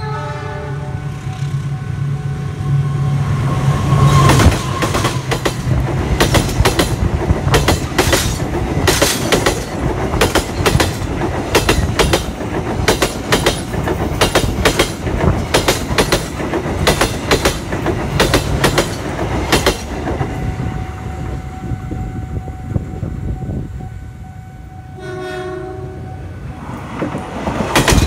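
A train horn sounds over the low hum of an approaching locomotive-hauled passenger train. The train then passes close by, its wheels clacking rapidly and steadily over a bolted rail joint. Near the end a short horn blast comes, and the wheels of an electric commuter train start clacking over the same joint.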